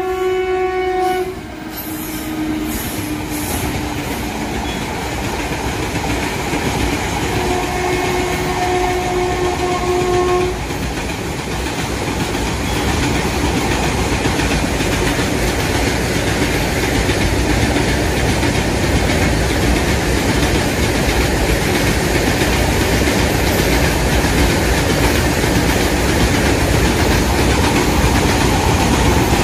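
Train horn sounding at the start, a slightly lower tone just after, then a second blast of about three seconds a quarter of the way in. After that, the steady rumble of the train running on the rails, slowly growing louder.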